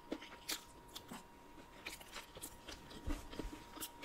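Close-miked chewing of soft, wet dragon fruit flesh, with scattered small mouth clicks and smacks.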